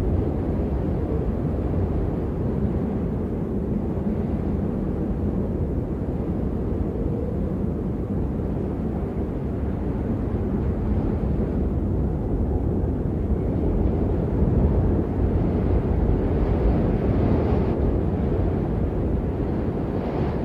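Strong wind buffeting the microphone: a steady low rumble that swells slightly a little past the middle.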